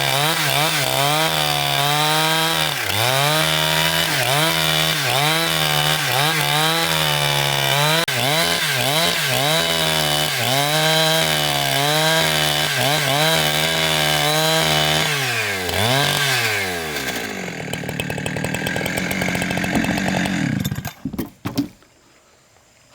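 Gasoline-engined saw cutting through timber, its engine pitch dipping under load and picking up again about once a second. Near the end the engine slows down and cuts off.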